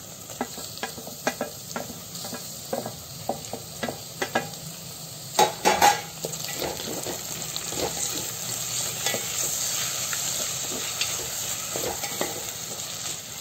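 Onions and fresh tomato pieces sizzling in hot oil in a metal pan, stirred with a wooden spatula that clicks and scrapes against the pan. A cluster of louder knocks comes about five to six seconds in.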